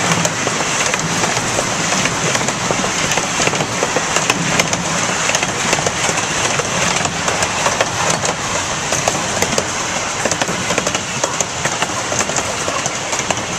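Miniature park train rolling along its narrow-gauge track, a steady rattling running noise dotted with many sharp clicks from the wheels on the rails, heard from one of the open passenger cars.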